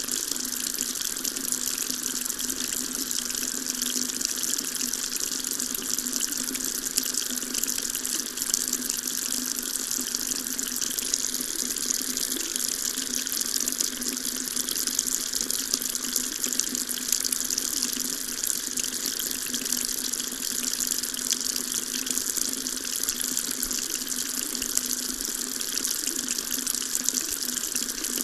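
Water tap running steadily into a sink, an even splashing stream that doesn't change.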